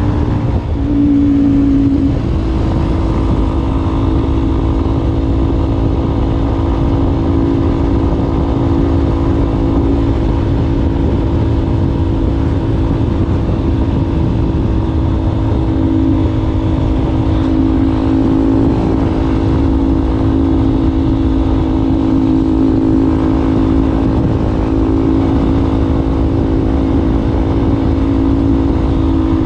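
Yamaha Ténéré 250's single-cylinder four-stroke engine running through an aftermarket Wacs exhaust muffler, holding a steady pitch, with a brief change in pitch about a second in.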